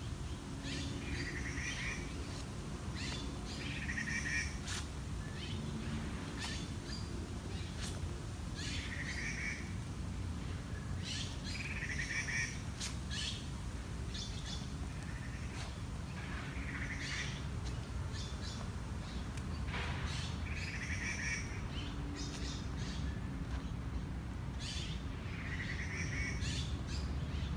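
Birds singing outdoors, one bird repeating a short call phrase every few seconds over a steady low background rumble.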